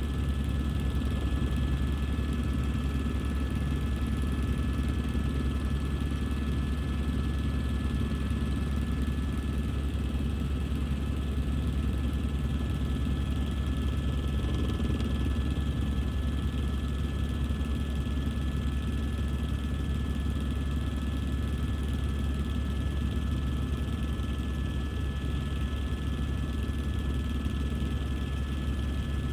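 Helicopter in flight, its rotor and turbine engine running steadily, with a couple of constant high whining tones above the low drone.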